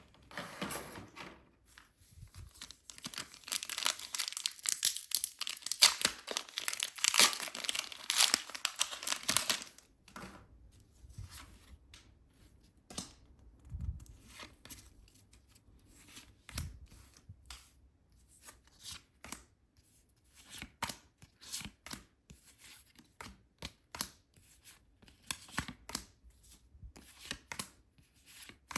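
Crinkly plastic packaging of a Pokémon card set torn and crumpled open for about seven seconds. It is followed by scattered light taps and clicks of the contents being handled.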